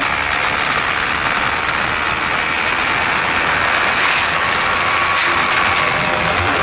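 TVS Apache RR 310's single-cylinder engine running on the move, mostly covered by a steady rush of wind noise.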